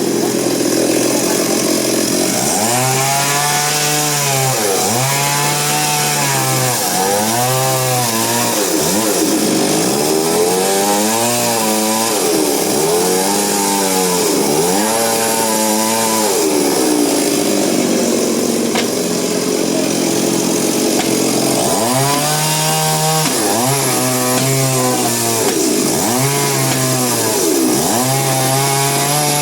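Chainsaw cutting wood, its engine pitch repeatedly rising and dropping every second or two, with a steadier, lower-pitched stretch midway.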